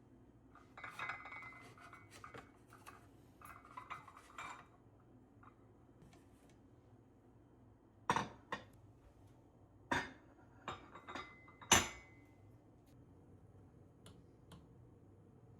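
Dishes and cutlery being handled and set down: a spell of light clinking and clattering, then several sharp knocks of crockery against a hard surface, one leaving a short ring.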